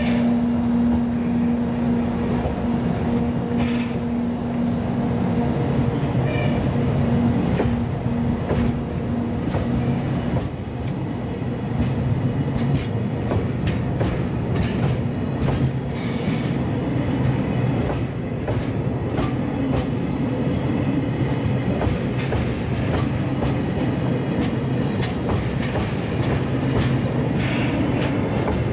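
Oil tank wagons of a departing freight train rolling past, with a continuous rumble and wheels clicking irregularly over the rail joints. A steady low hum runs under it and stops about ten seconds in.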